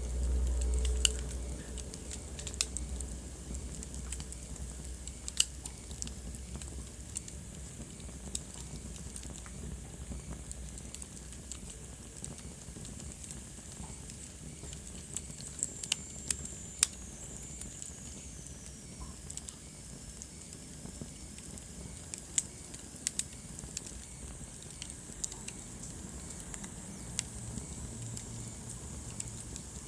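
Wood fire crackling in a fireplace: irregular sharp pops and snaps over a steady soft hiss. A low rumble sounds in the first couple of seconds, and a thin whistle falls in pitch about halfway through.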